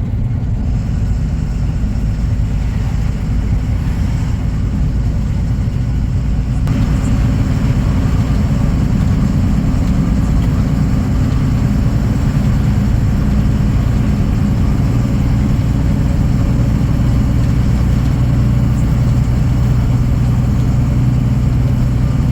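Truck's diesel engine running steadily under way, a loud low drone from inside the cab; it gets a little louder about six and a half seconds in.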